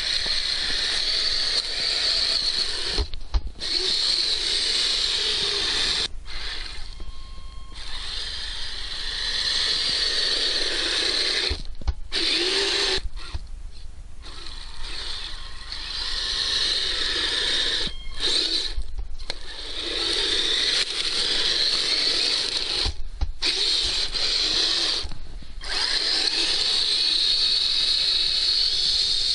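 Kyosho Blizzard RC snow vehicle's electric drive motor and gears whining as it drives, stopping for a moment about eight times and starting again.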